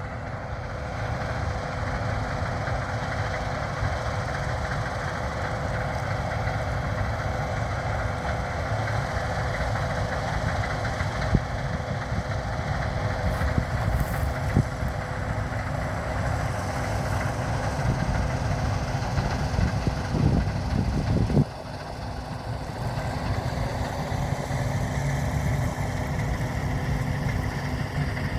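Heavy diesel farm machinery running steadily, with a constant whine over the engine noise. It gets louder briefly about 20 seconds in, then drops abruptly about 21 seconds in.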